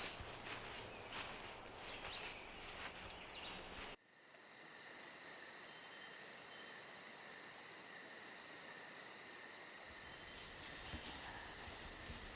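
Footsteps and rustling on the forest floor with a few bird chirps. About four seconds in, these cut off abruptly and give way to a steady night chorus of crickets and other insects, trilling with a fast, even pulse.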